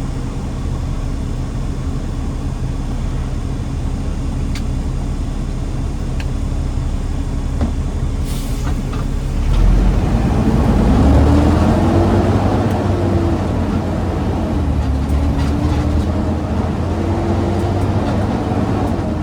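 A garbage truck's engine running steadily, then pulling harder about halfway in, getting louder with its pitch climbing and dropping back in steps like gear changes.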